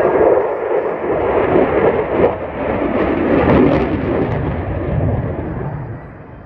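Aircraft flying low past the crowd: a loud engine roar that swells to a peak and then fades away near the end.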